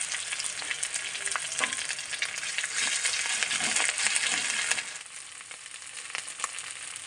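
Sliced onions and freshly added ginger paste sizzling in hot oil in a metal kadai, stirred with a metal spatula that clicks and scrapes against the pan. The sizzle dies down about five seconds in.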